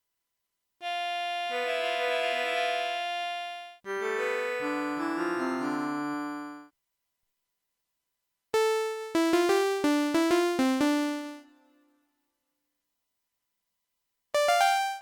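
Jeannie polyphonic synthesizer playing: two held chords that change about halfway through, then, after a pause, a short phrase of plucked notes that fade quickly. Another plucked phrase starts near the end.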